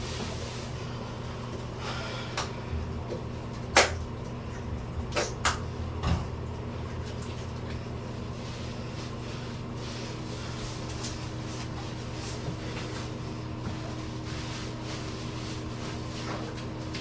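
Several sharp knocks and clatters in the first six seconds, the loudest about four seconds in, over a steady low hum.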